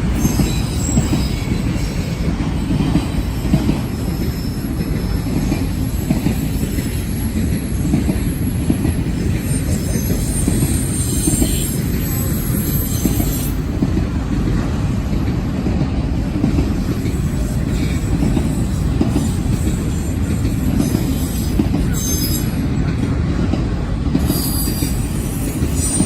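Freight train cars rolling past, steel wheels rumbling steadily on the rails, with high-pitched wheel squeals about ten seconds in and brief squeaks near the end.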